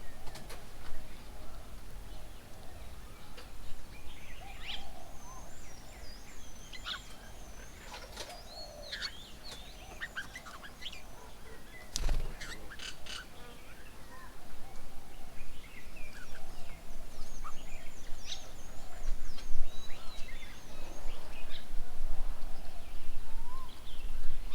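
Several wild birds chirping and calling around a garden bird table, with many short, quick chirps and trills. There is a sharp knock about halfway through and a low rumble underneath that grows louder in the second half.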